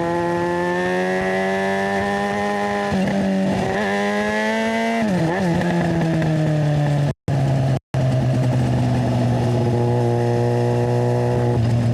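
Yamaha FZ6's inline-four engine running through a GPR Ghost aftermarket exhaust: the engine note climbs slowly, wavers and then drops about five seconds in, and holds a steady lower note after that. The sound cuts out twice, very briefly, about seven and eight seconds in.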